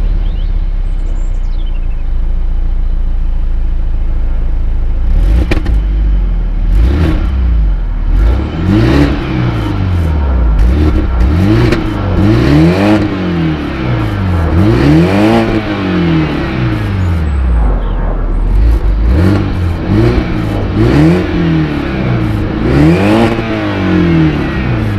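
The stock BMW 120i's 2.0-litre naturally aspirated four-cylinder petrol engine and exhaust, idling steadily just after a start, then revved in a series of quick throttle blips from about eight seconds in, each rising and falling back to idle. It has a smooth sound.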